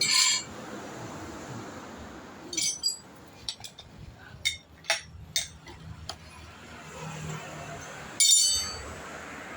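Metal clinking and knocking: three bright ringing clinks, at the start, near the third second and near the end, with a run of sharp clicks in between, like hand tools and metal parts being handled and set down.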